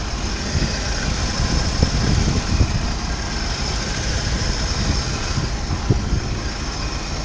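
1963 Ford F100's inline-six engine idling steadily shortly after a cold start without choke.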